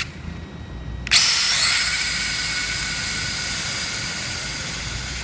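Electric RC drag car launching about a second in: a sudden high-pitched motor and gear whine that rises briefly in pitch, then holds steady while fading as the car runs away.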